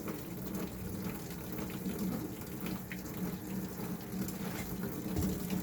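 Washing machine with water running steadily through it, over a steady low hum.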